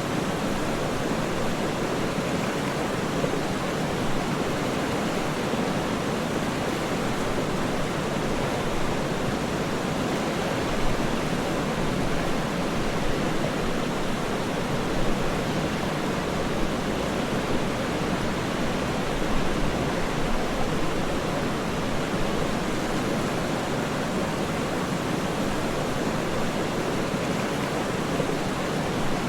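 Waterfall: a steady, unbroken rush of falling water, even throughout with only small momentary swells.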